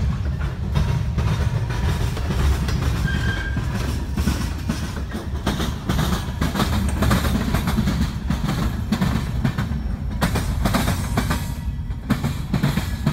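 A CSX ballast train rolling past: a steady low rumble with rapid clicking and clatter from the wheels, as the hopper cars dump ballast stone onto the track.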